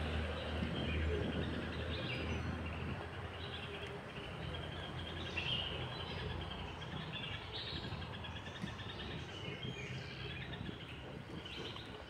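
Birds chirping and calling over a steady outdoor background hiss, with a low rumble in the first few seconds.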